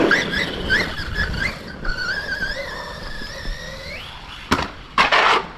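An RC monster truck's brushless electric motor whines as it drives, its pitch wavering with the throttle and climbing just before the whine stops. A couple of short scuffs follow near the end.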